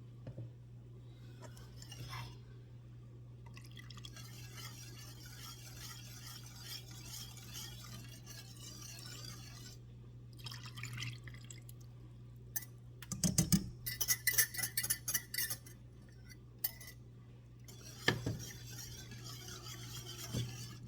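Half-and-half being poured and stirred into a roux-based sauce in a pan, with glass and utensils clinking against cookware: a quick run of clinks about two-thirds through and a single knock near the end, over a steady low hum.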